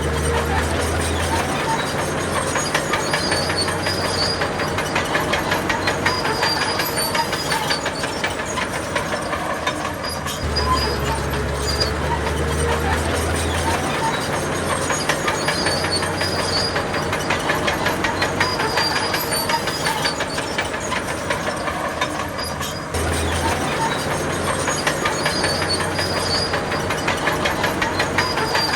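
Bulldozer's diesel engine running under load, with a fast, steady clatter like steel tracks; a deep rumble swells near the start, again for a few seconds around the middle, and briefly later on.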